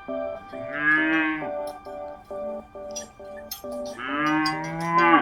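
A cow mooing twice: two long calls, the second starting about three seconds after the first, over light background music.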